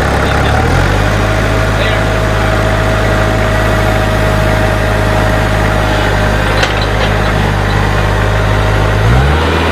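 Tractor engine running steadily, its note changing about a second in and again near the end. A thin steady whine sits over it for several seconds, and there is a brief click about two-thirds of the way through.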